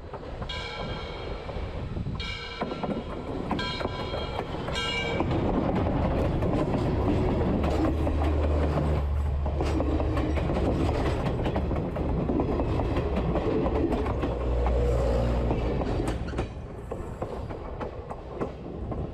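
A train horn sounds four short blasts. Then a train passes close by with a heavy rumble and wheels clattering on the rails, easing off near the end.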